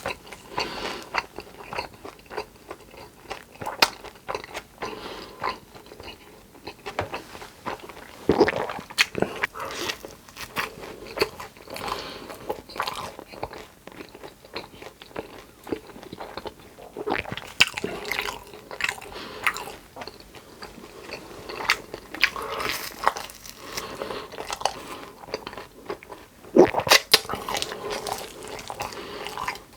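Close-miked biting and chewing of food: crunchy bites and chewing with many irregular sharp clicks, loudest about a third of the way in and again near the end.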